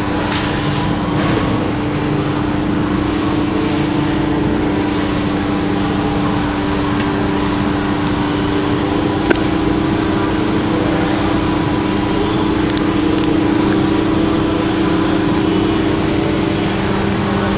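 Turbocharged Nissan KA24DE 2.4-litre inline-four with aftermarket cams, running steadily without revving. A single sharp click sounds about nine seconds in.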